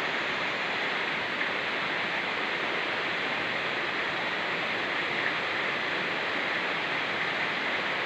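Steady rushing of rain falling in forest together with a fast-flowing mountain stream, an even unbroken wash of water noise.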